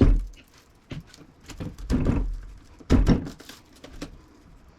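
Hammer blows on a large screwdriver used as a punch, knocking the copper windings out of an electric motor's steel stator: sharp metal strikes, one near the start, one around two seconds in and one about three seconds in, each ringing briefly, with a lighter knock about a second in.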